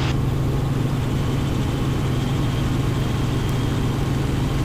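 Robinson R44 Raven II helicopter in flight, heard inside the cockpit: the steady drone of its Lycoming six-cylinder engine and rotors, unchanging throughout.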